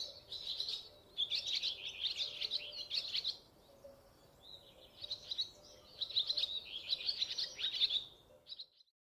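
Songbird twittering in fast, dense runs of high chirps, with two long phrases and quieter chirping between them. It cuts off abruptly near the end.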